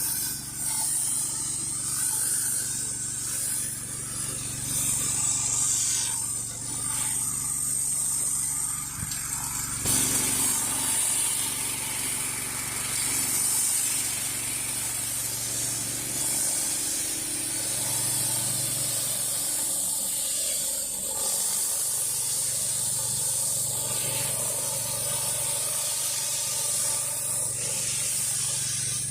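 Whisper Wash 16-inch surface cleaner running over concrete: a steady high hiss of its spinning pressure-washer jets over a steady low hum.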